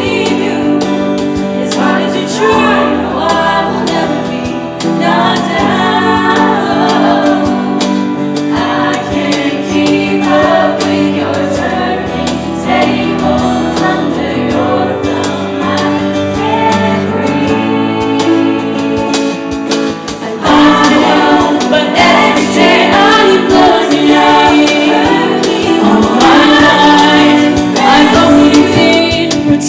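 Show choir singing in harmony with instrumental accompaniment. About twenty seconds in, the music grows louder and fuller.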